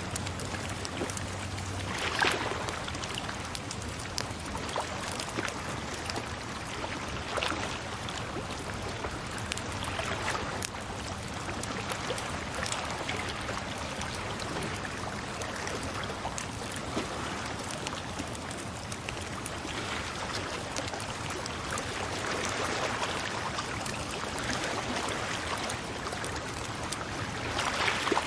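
Water flowing and splashing steadily, with irregular splashes and a louder surge about two seconds in and again near the end.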